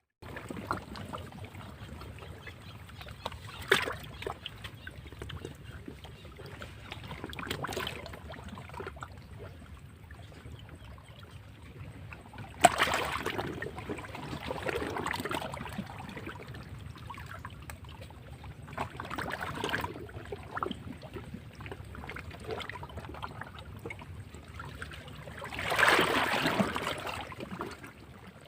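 Sea waves breaking against rocks: a steady low surge of water with separate wave splashes every few seconds, the sharpest about a third of the way in and a longer, louder wash near the end.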